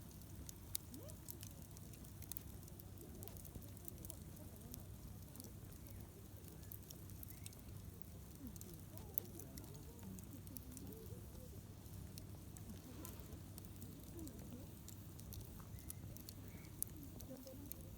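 Wood campfire crackling, with scattered small snaps and a few sharper pops over a low steady rumble.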